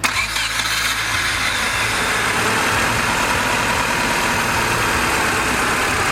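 Aerosol cleaner spraying in one long, loud, steady hiss that starts and stops abruptly.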